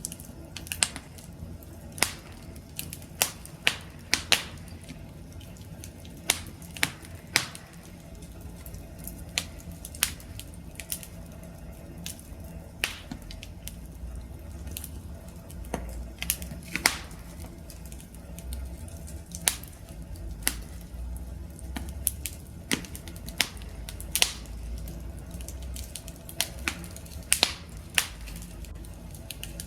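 Wood fire crackling: irregular sharp pops and snaps, a few a second, over a low steady rumble of burning that grows a little fuller partway through.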